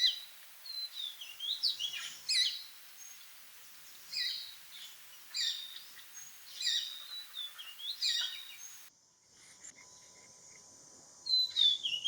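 Shikra calling: short phrases of sharp, high-pitched notes, repeated every second or so. The sound cuts off about nine seconds in, and the calls start again near the end.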